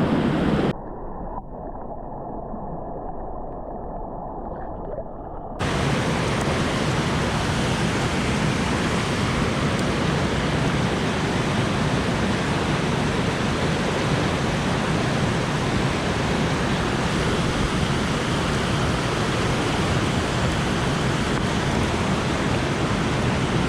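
Steady rushing of river water. Near the start it turns muffled and quieter for about five seconds, then returns to a full, even rush.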